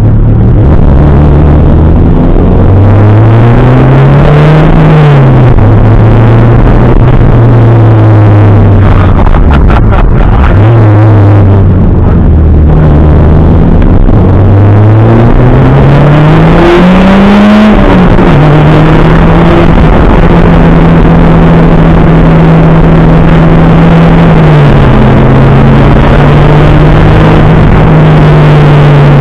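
Toyota Celica GT-Four ST185 rally car's turbocharged 2.0-litre four-cylinder engine, loud inside the stripped cabin, pulling hard through the gears. The pitch climbs, drops at each shift about five and eighteen seconds in, holds steady for long stretches, and dips briefly near the end.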